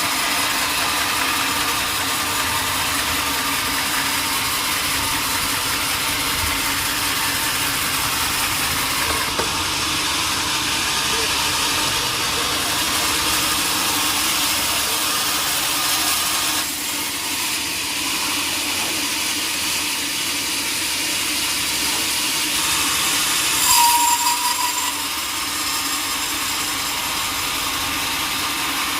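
Sawmill machinery running steadily with a dense, even mechanical noise. It eases slightly about halfway through, and a brief louder squeal comes about three-quarters of the way in.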